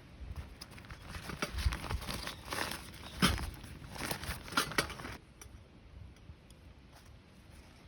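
Rustling and crinkling with a string of sharp clicks and light knocks as things are handled, busy for about five seconds and then quieter.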